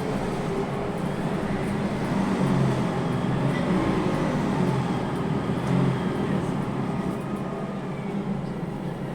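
Heard from inside a Scania N280UB city bus with a Castrosua New City body: its compressed-natural-gas engine and drivetrain run steadily as it drives, a low hum that shifts in pitch a little.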